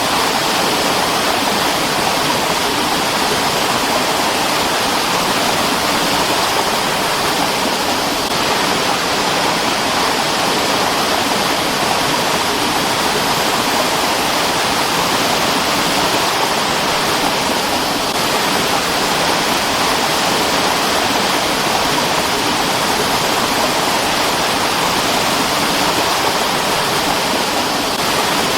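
Mountain stream rushing over rocks: a steady, unbroken sound of flowing water.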